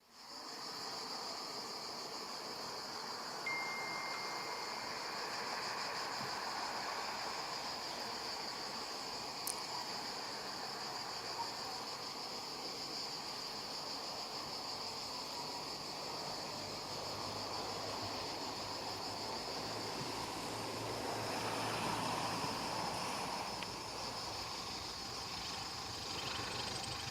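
Insects chirping in a steady, continuous high-pitched drone, with no engine running.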